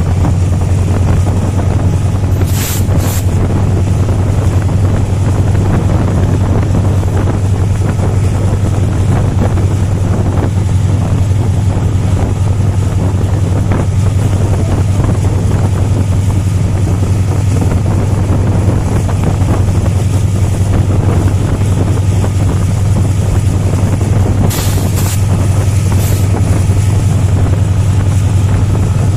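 A moving train: the steady low hum of a diesel locomotive engine, mixed with wind and rolling noise. There are short sharp high-pitched squeaks about three seconds in and again near the end.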